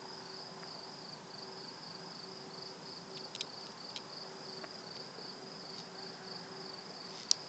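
Night insects, cricket-like, giving a steady high pulsing trill, with a low steady hum that cuts in and out underneath it. A few faint clicks.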